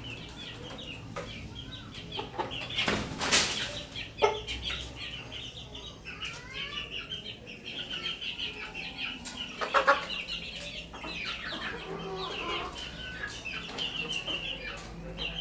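Parrot Beak Aseel hen clucking amid the constant high peeping of her chicks. There are two louder, noisy bursts, about three seconds in and again near ten seconds.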